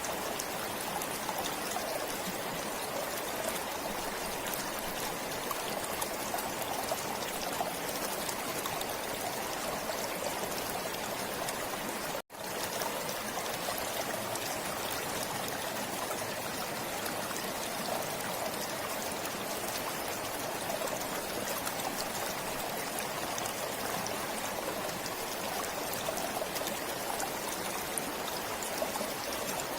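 Forest stream flowing steadily over rocks, an even trickling and splashing of water. The sound drops out for a moment about twelve seconds in.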